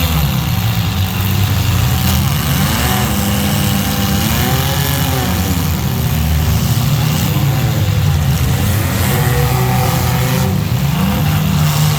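Race vehicles' engines running loudly, revving up and down several times over a steady engine drone.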